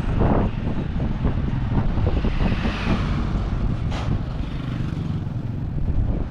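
Low, steady rumble of a moving vehicle with wind buffeting the microphone, a rushing swell about halfway through and a sharp click near the end.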